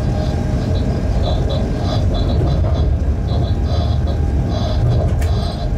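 Freight train running along the track, heard from inside the locomotive cab: a steady low rumble with short high-pitched squeaks that come and go, and a single sharp click about five seconds in.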